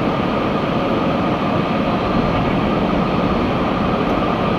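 Automatic tunnel car wash equipment running, heard from inside the car's cabin: a steady, even rushing noise of water, brushes or blowers working over the car.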